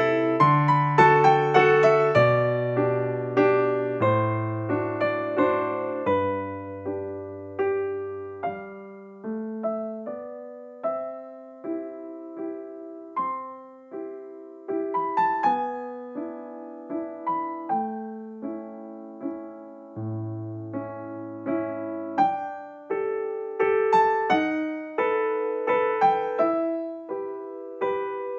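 Background music: a gentle solo piano piece, notes and chords struck one after another over a slow bass line, each note fading.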